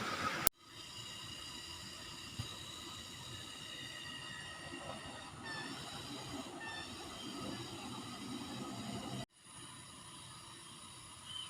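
Tropical forest ambience: a chorus of insects holding several steady high-pitched tones, with two short chirping calls around the middle. The sound changes abruptly about half a second in and again near the end, where one recording is spliced to the next.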